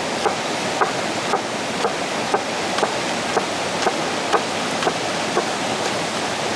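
Steady rushing water, with short sharp clicks recurring about twice a second.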